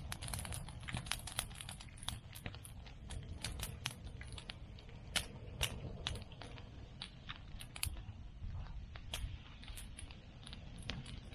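Bonfire of cut bamboo and chestnut prunings crackling and popping: dense, irregular small snaps, with a low rumble of the fire underneath.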